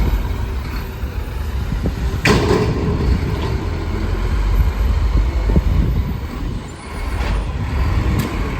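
Garbage truck engine running with a steady low rumble, with one short, sharp burst of noise about two seconds in.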